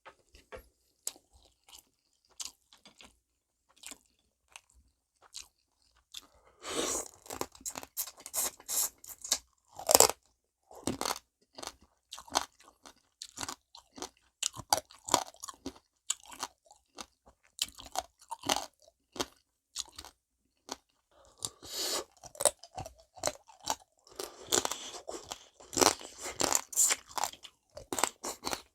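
Close-up crunching and chewing of soy-marinated raw rock crab, the shells cracking between the teeth. Scattered clicks at first, then dense bursts of crunching, with the loudest crack about ten seconds in.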